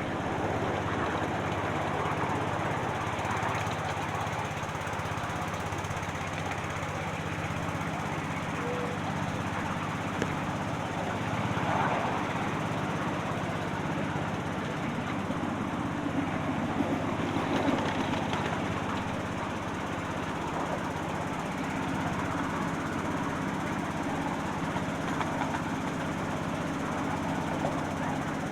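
Miniature railway train running steadily along the track: a continuous engine drone from the Deltic-style locomotive, mixed with the running noise of the wheels on the rails.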